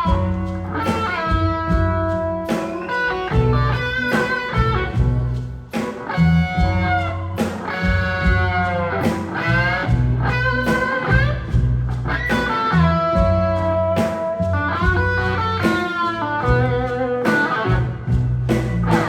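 Live blues-rock band playing an instrumental stretch: a lead electric guitar plays a solo line with bent notes over bass guitar and drums.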